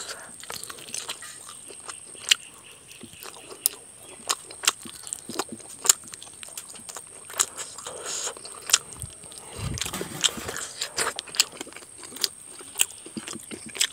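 Close-up chewing and lip-smacking of a mouthful of rice and chicken curry eaten by hand, with short wet clicks a little over once a second.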